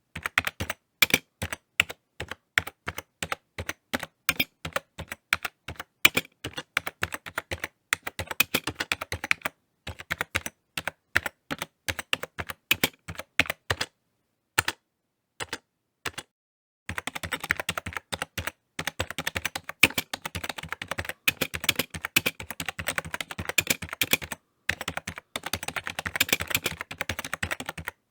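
Typing on a computer keyboard: runs of rapid key clicks broken by short pauses, with a faster, denser burst of typing in the second half.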